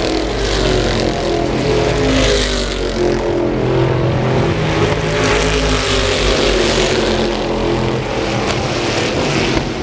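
Stock car racing engines running at speed as cars pass, the sound swelling several times.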